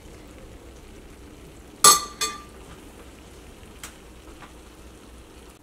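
Chicken curry sizzling faintly in a pan, with a sharp metallic clink about two seconds in that rings briefly, followed by a smaller clink.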